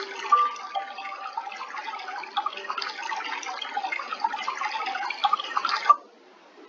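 Trickling, dripping water with a dense bubbling texture and a few brief tones, cut off abruptly about six seconds in.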